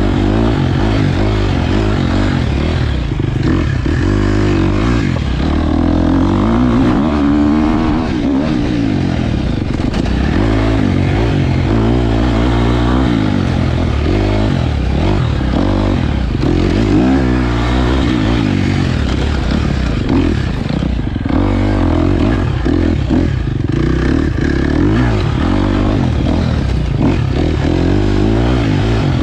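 KTM 250 XC-F dirt bike's single-cylinder four-stroke engine revving up and down as it is ridden over rough trail, with frequent knocks and clatter from the bike.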